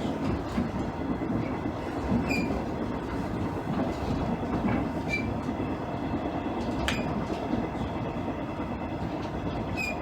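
Running noise inside a JR East KiHa 110-series diesel railcar: a steady rumble of the engine and wheels on the rails, with a few scattered clicks and brief high wheel squeaks.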